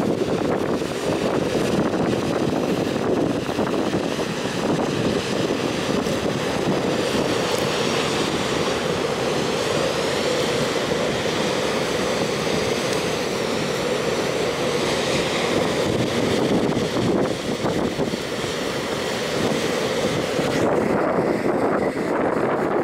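Steady rumble of a freight train's wagons rolling over a curved railway viaduct, mixed with wind buffeting the microphone. The higher hiss drops away about three-quarters of the way through.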